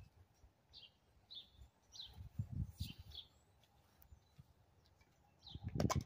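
A bird chirping again and again in short high notes, with a low wind rumble on the microphone. Near the end comes a brief loud clatter.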